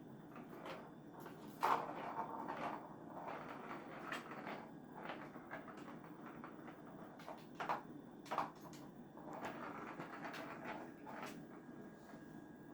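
A kitten at play: irregular light knocks, scrapes and rustles, loudest once about two seconds in and twice around eight seconds in.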